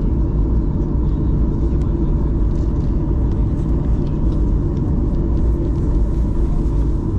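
Steady, loud rumble of a Boeing 737-800's CFM56 jet engines and airflow heard inside the passenger cabin, with a steady hum tone running through it.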